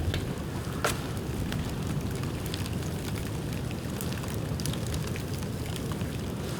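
Dried bamboo burning in an open bonfire, crackling with scattered sharp pops over a steady low rumble, with one louder pop about a second in.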